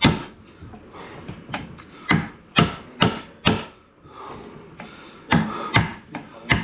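Repeated hammer blows on wood, sharp strikes about two a second in two runs with a short pause in the middle.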